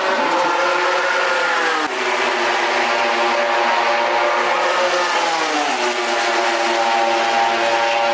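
MotoGP racing motorcycle engine running hard, its pitch dropping twice as the bike slows.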